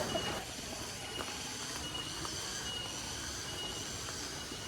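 Steady outdoor background hiss with short high chirps repeating about once a second and a few faint clicks.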